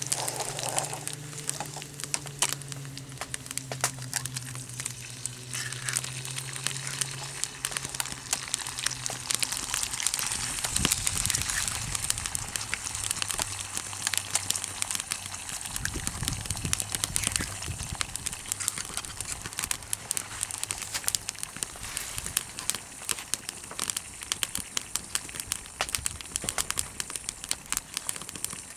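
Wood campfire crackling, with a steady run of sharp pops and snaps over a hiss.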